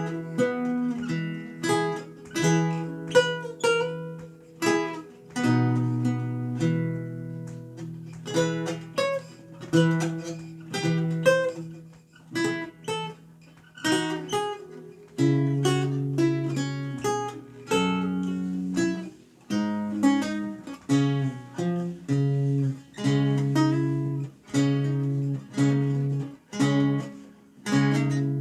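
Renaissance lute played solo: a melody of plucked notes over a line of bass notes. The playing thins into a soft lull about halfway through, then resumes with bass notes struck roughly once a second.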